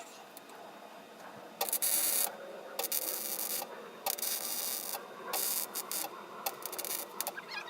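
MIG welder arc crackling in about five short bursts of half a second to a second each, with clicks between them: plug-welding a nut onto a broken bolt stub.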